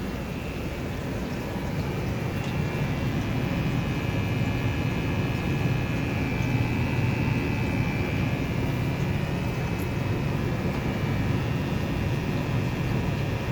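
Tandem pair of furnaces running: a steady low rumbling hum with a faint high whine over it, growing a little louder about two seconds in.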